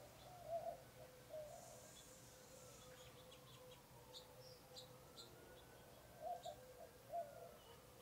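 Faint bird sounds: scattered short, high chirps from small birds, and two pairs of louder, low warbling calls, one pair just after the start and one near the end, over a steady faint hum.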